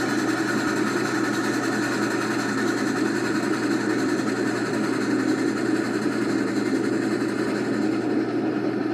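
Diesel locomotive engine running steadily as it pulls a passenger train, an even, unbroken rumble.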